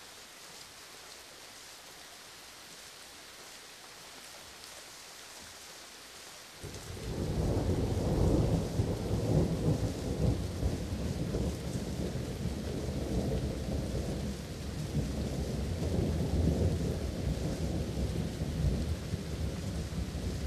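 Steady rain falling, then about six seconds in a long roll of thunder starts suddenly and keeps rumbling over the rain.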